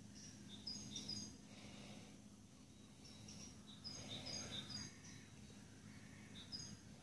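Small birds chirping faintly: short high notes in quick clusters about a second in and again around four seconds in, over a faint steady low hum.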